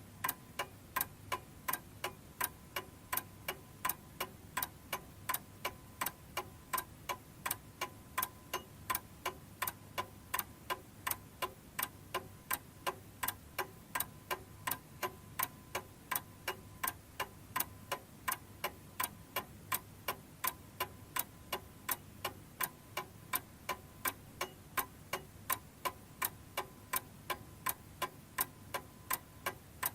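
Domestic chiming clock's mechanism ticking: an even, steady tick-tock at a little over two ticks a second.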